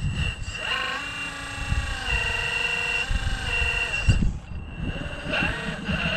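Electric drive motor of a radio-controlled rock crawler whining as it drives, its pitch stepping up and down with the throttle over a steady high tone, with wind buffeting the microphone.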